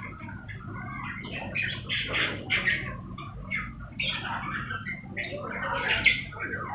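A flock of lovebirds squawking and chattering, many short, shrill calls overlapping, with louder bursts about two seconds in and again near the end.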